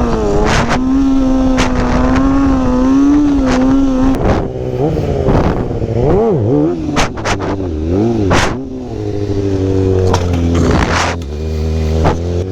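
Sportbike engine held at steady high revs for about four seconds, then dropping and revving up and down several times before settling to a low idle near the end.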